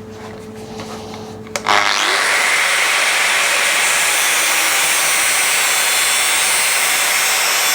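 Grinder working a motorcycle cylinder head to level a step in the casting. A loud, steady grinding starts about two seconds in and holds. Before it there is a low steady hum.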